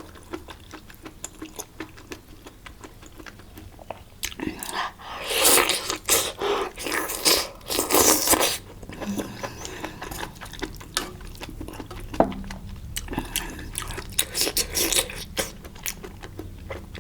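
Close-miked mouth sounds of someone eating spicy malatang hotpot: wet chewing and biting with small crunches. It gets louder and busier for a few seconds from about four seconds in, then settles back into quieter chewing.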